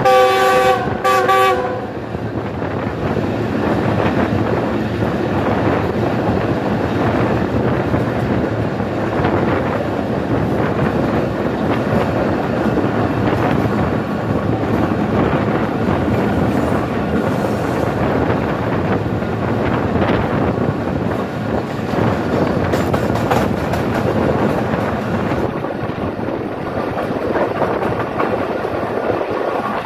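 Two short blasts of a diesel locomotive's multi-tone horn at the start, then the steady rolling and clatter of the express's passenger coaches running at speed over the track.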